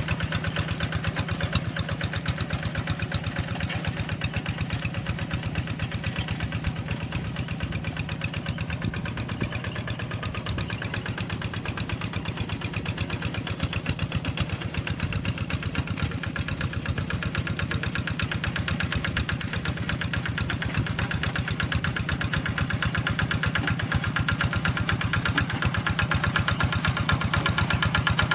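Tractor engine running steadily with a rapid, even chugging, a little louder toward the end.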